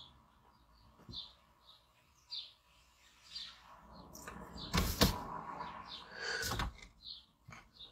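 Small birds chirping in short, high, repeated calls. A sharp knock comes about five seconds in, and a smaller one about a second and a half later.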